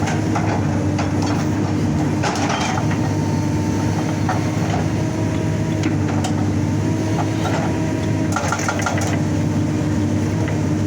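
Excavator's diesel engine and hydraulics running steadily under load, with a steady whine over the engine note, and short bursts of clattering twice, about two seconds in and near the end.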